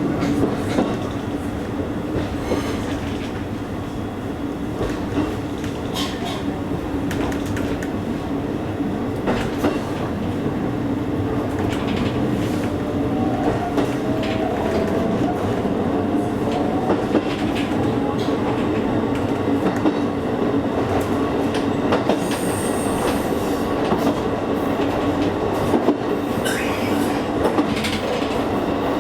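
Local electric train running along the line, heard from inside the car: a steady rumble and hum of wheels on rail, with scattered clicks over rail joints.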